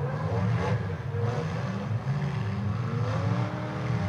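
Demolition derby cars' engines running and revving, with one rev rising in pitch about three seconds in.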